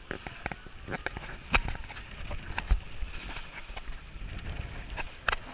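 Waves slapping and splashing against the hulls of a small sailing catamaran moving fast through choppy water, with irregular sharp knocks over a rumbling wash.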